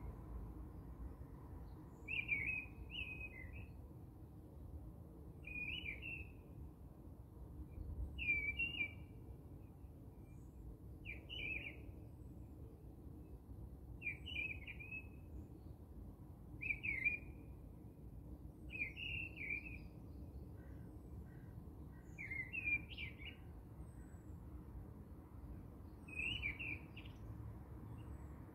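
A bird singing a short chirping phrase about every three seconds, over low background noise.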